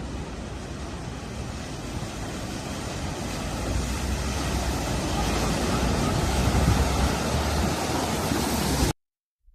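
Rushing floodwater with wind buffeting the microphone, a dense rumbling noise that grows louder and then cuts off suddenly near the end.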